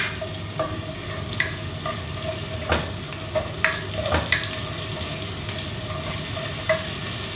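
Sliced onion and garlic sautéing in hot oil in a pot, a steady sizzle as it is stirred, with the spatula knocking against the pot every second or so.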